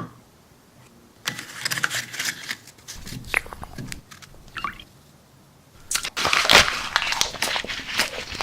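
Crunchy chips being bitten and chewed: bouts of dry crunching and crackling, one from about a second in to about four seconds, and a louder, denser one from about six seconds on.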